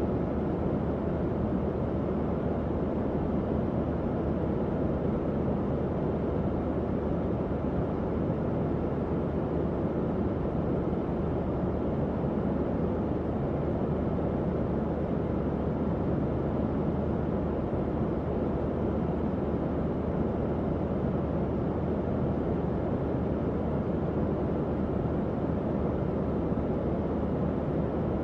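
Tower fan running steadily: an even, low whooshing rush of air with a faint low hum underneath.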